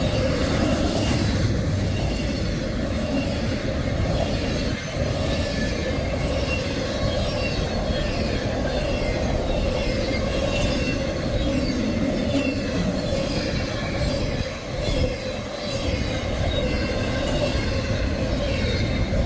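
Long freight train rolling past a grade crossing: a steady, loud rumble of cars and steel wheels on the rails, with faint squeals and rattles.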